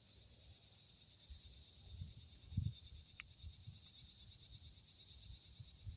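Faint steady chorus of insects, with scattered low rumbles on the microphone and a single sharp click about three seconds in.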